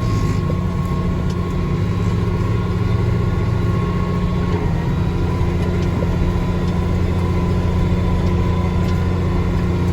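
Farm tractor engine running steadily under load, a continuous low drone heard from inside the cab, with a faint high tone that drops out about halfway through.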